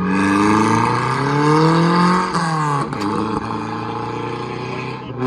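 Car engine accelerating, its pitch rising for about two seconds, then dropping sharply at a gear change and running steadier.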